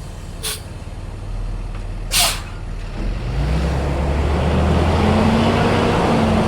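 Stuck box truck's engine revving up about halfway through and holding at raised revs under load as it tries to drive out, with a couple of short air hisses before it.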